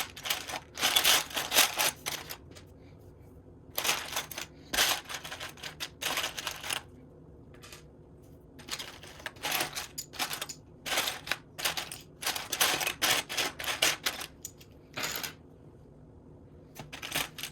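Loose Lego plastic pieces clattering and clicking in bursts as they are rummaged through and sorted, with short quiet pauses between handfuls.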